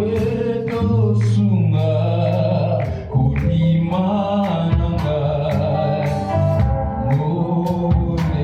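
Gospel worship band playing, with singing over a steady drum beat and sustained bass and keyboard.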